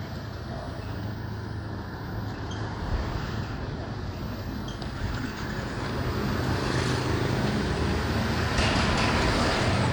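Road traffic heard from a moving motorbike: a steady low engine hum under a wash of street and vehicle noise, growing louder in the second half.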